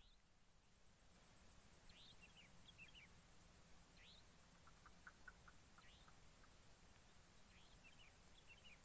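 Faint bird calls over a quiet swamp background: short rising chirps every second or two, with a quick run of short pips about midway. A faint, steady, high pulsing trill runs underneath.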